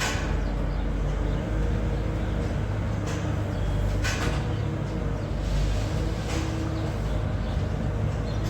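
Tractor engine running steadily, with a few short knocks over it.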